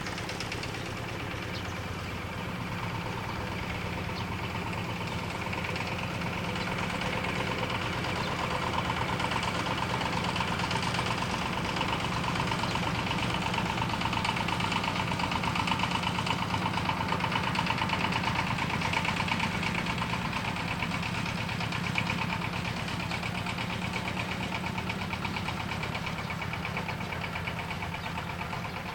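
A motor engine running steadily with a fast, even chugging. It grows somewhat louder in the middle stretch and eases back toward the end.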